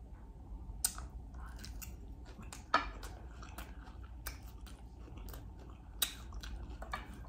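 A person chewing a mouthful of food close to the microphone, with scattered sharp mouth clicks; the loudest comes a little under three seconds in.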